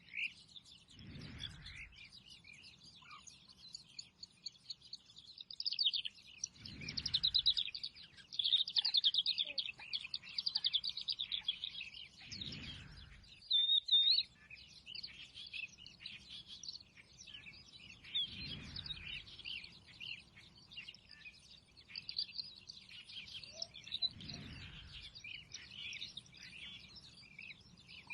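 Many small birds chirping and twittering together in a dense, continuous chorus, busiest in the middle. A low whoosh swells and fades about every six seconds beneath it.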